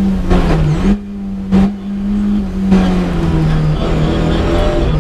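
Lada 21074 rally car's engine heard from inside the cabin, running hard along a stage, its note dipping and stepping lower a couple of times as the driver comes off the throttle and changes gear. A single short, sharp crack about a second and a half in.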